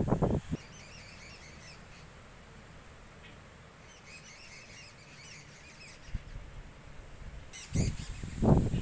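A bird chirping in short repeated calls, faint, in two spells. Gusts of wind on the microphone and rustling plants come loudly in the first half-second and again near the end.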